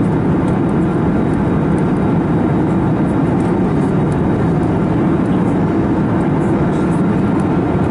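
Steady, loud cabin drone inside an Airbus A321neo: the even rush of engine and airflow noise heard from a passenger seat.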